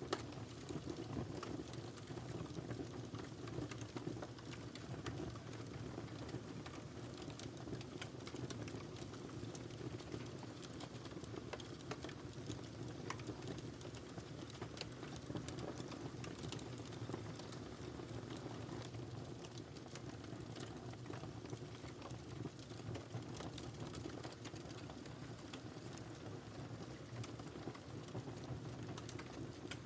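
Wood fire burning in a fireplace: a steady low rumble of flame with frequent small crackles and pops throughout.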